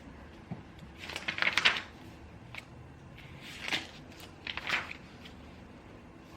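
Scratchy paper sounds at a study desk in three short bouts, the first about a second in and the longest, with a few light clicks between.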